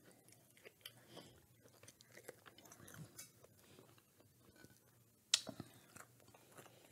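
Faint close chewing of a fried chicken sandwich on a brioche bun, with soft wet mouth clicks and one sharper click about five seconds in.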